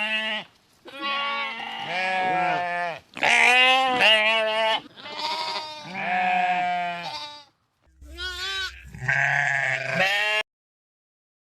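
Sheep bleating: a series of about six long, wavering bleats.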